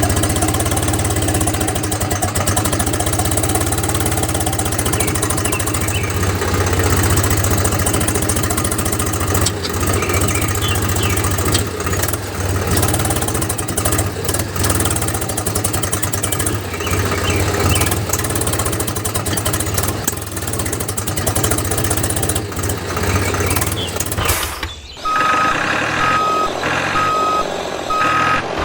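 A small engine running steadily with a low hum and rattle. Near the end it breaks off and a short run of evenly spaced beeps, like a reversing alarm, sounds.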